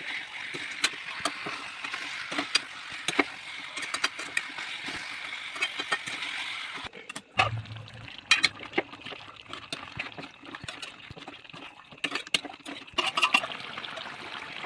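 Curry cooking in a pan: a steady sizzling hiss with frequent sharp pops and clicks. It breaks off briefly about seven seconds in, then comes back with more scattered pops.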